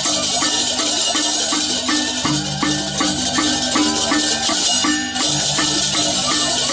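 Balinese gamelan music: a busy wash of clashing cymbals over a fast, evenly repeating pattern of pitched metal gong and metallophone notes. The cymbals drop out briefly about five seconds in, then come back.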